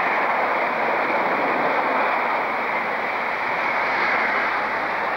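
Express passenger train on an electrified main line passing through the station at speed: a steady rushing of wheels on rail and air, easing slightly near the end.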